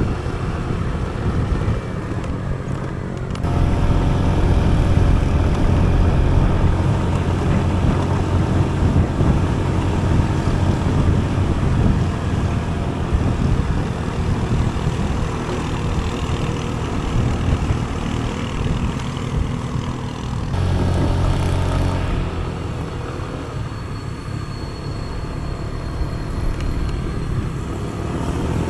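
A vehicle engine running steadily on the move, with road and wind noise. It gets markedly louder a few seconds in and eases back near the twenty-second mark.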